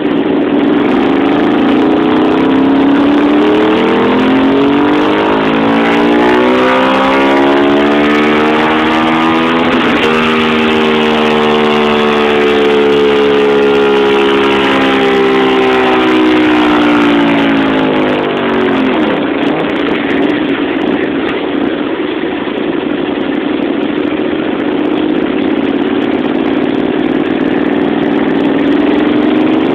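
Honda VTR1000F Firestorm's 996 cc V-twin running on a roller dyno through a stainless slip-on silencer: the revs climb steadily for about ten seconds in a dyno pull, fall away over about nine seconds as it runs down, then the engine idles.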